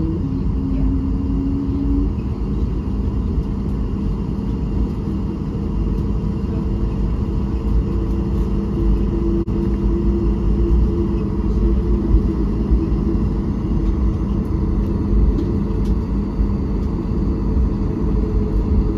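Cabin noise inside a Boeing 737 airliner: the jet engines running with a steady low rumble and a constant hum.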